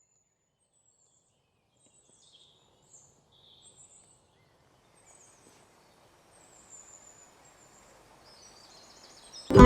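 Faint, scattered bird chirps over quiet outdoor ambience. Background music starts loudly near the end.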